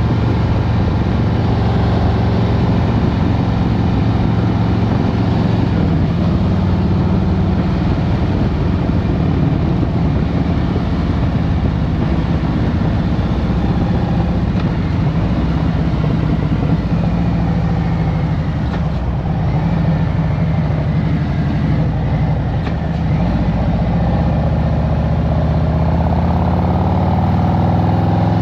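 Harley-Davidson Road Glide Special's Milwaukee-Eight 114 V-twin engine running while riding in traffic, the engine note easing lower past the middle and rising again near the end as it accelerates.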